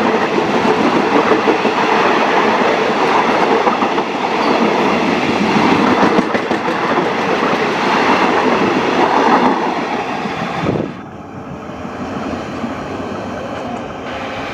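A Thai passenger train's carriages rolling past close by, their wheels running loudly on the rails. About eleven seconds in the last carriage goes by and the sound drops suddenly to a quieter rumble as the train moves away.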